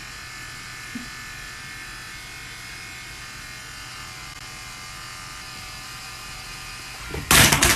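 A steady electric hum, like a small motor running, with several constant tones held throughout. About seven seconds in, a loud sudden noise breaks in.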